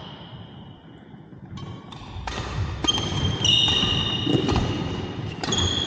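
Badminton play in a hall: sharp racket hits on the shuttlecock and squeaks of court shoes on the floor, starting about a second and a half in.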